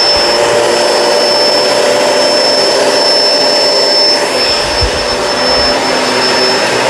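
Kenmore Crossover Ultra upright vacuum running steadily as it is pushed over a thick-pile rug: a constant motor rush with a thin, high, steady whine. There are a few low bumps about two-thirds of the way through.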